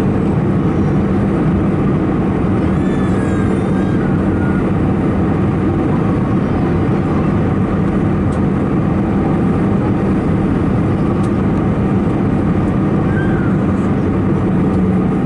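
Steady cabin noise inside an Airbus A319-111 on descent: engine and airflow rush with a constant low hum.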